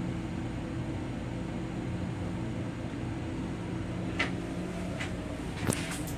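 Steady hum of a Long Island Rail Road M7 electric railcar's running and ventilation equipment, heard inside the car's small restroom. A few sharp clicks come in the second half, the loudest a little before the end.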